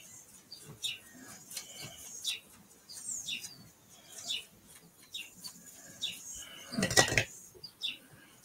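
Small birds chirping over and over in short high calls, a few sliding downward. A loud clatter comes about seven seconds in.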